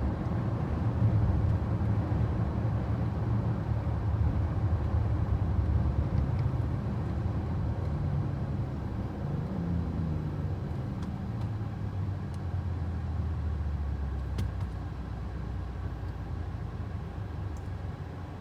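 2021 BMW X6 on the move: a steady low engine and road rumble. The pitch shifts briefly about halfway through, then the rumble settles lower and a little quieter as the car eases off.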